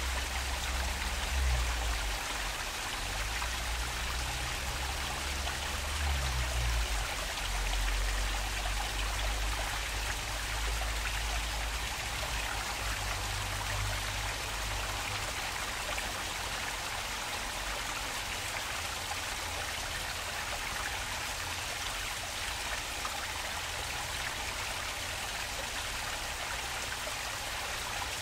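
Water flowing steadily in a park stream, a continuous splashing, trickling hiss. A low rumble sits under it for the first half and then fades.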